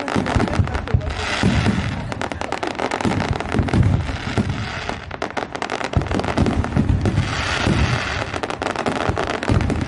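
Fireworks going off in a continuous barrage: dense rapid crackling with deep booms underneath.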